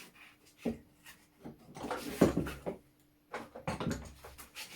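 Clicks, knocks and clatter of tools and small metal parts being handled on a workbench, irregular, with a longer run of rattling about two seconds in and again near the end.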